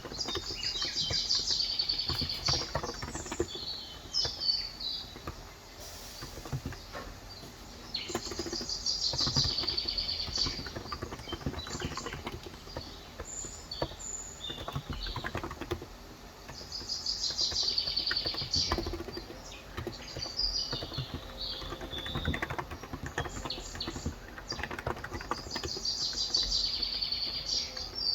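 Typing on a COX Endeavor electro-capacitive 35 g tenkeyless keyboard, a scatter of soft keystrokes, while a bird sings a high trilling phrase of two or three seconds about every eight seconds.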